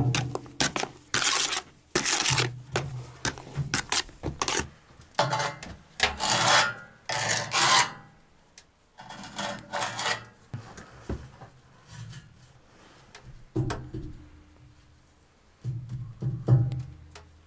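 Irregular rubbing and scraping strokes, some short and some drawn out over about a second, busiest in the first half and again near the end.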